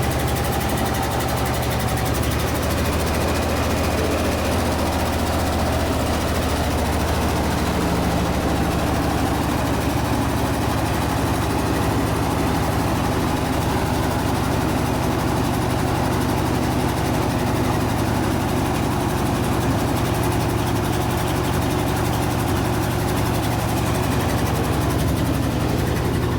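1976 Ford F-600 dump truck's engine idling steadily.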